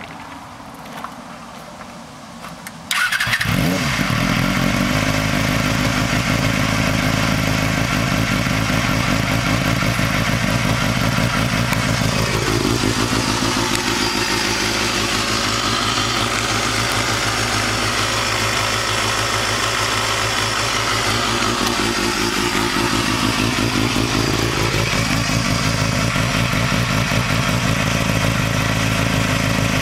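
Honda CBR250RR's 250 cc inline four-cylinder engine, breathing through a custom full exhaust with oversized headers and a hand-built rear can, starts about three seconds in and settles into a steady idle.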